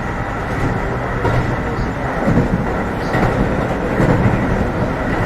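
Keio 7000 series train running at speed, heard from inside the car: a steady rumble of wheels on rail with louder swells about once a second.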